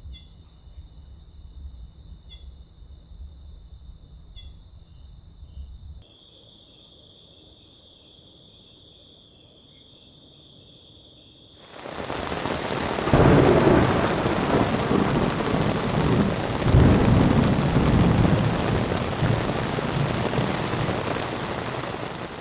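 Insects calling with steady high chirring for the first half. About halfway through, heavy rain comes in with thunder rumbling, which is the loudest part.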